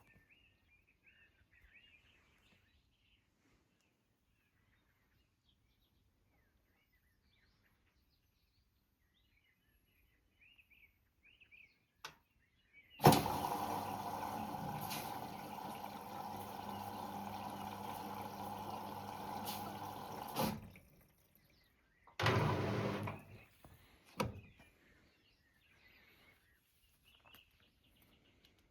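Beko washing machine starting its wash cycle: a sharp click, then a steady humming rush for about seven seconds that cuts off, a second shorter burst of about a second, and a click.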